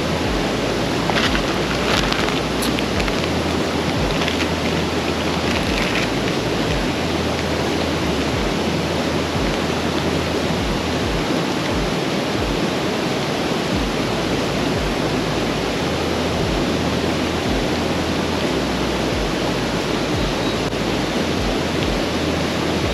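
Steady rush of a mountain stream in the rain, with irregular low rumbles of wind buffeting the microphone.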